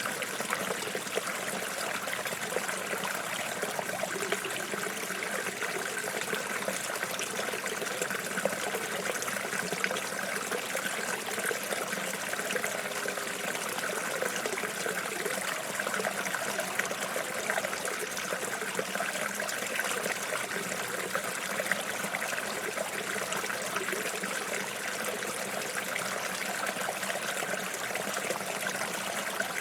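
Water flowing in a stream, a steady trickling with no change in level.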